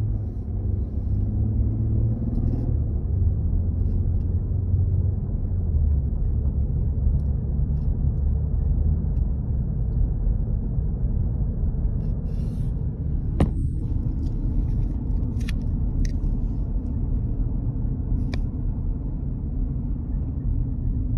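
Car driving, its engine and road noise making a steady low rumble, with the engine note rising over the first couple of seconds. A few sharp clicks come about two-thirds of the way through.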